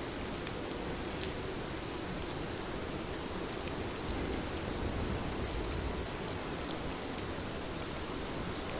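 Heavy rain falling steadily, an even hiss with scattered drop ticks. A low rumble swells briefly about halfway through.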